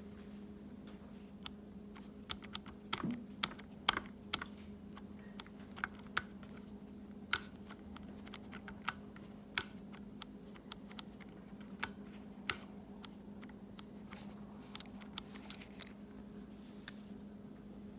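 Irregular sharp clicks of the motorcycle's switchgear being pressed again and again, with no cranking from the starter: a no-crank, no-start. A faint steady hum runs underneath.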